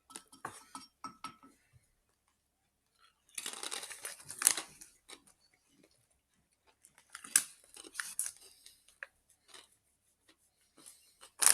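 Someone eating crisps: crunching and chewing with scattered small clicks, and louder crackly bursts about four seconds in and again around seven to eight seconds in.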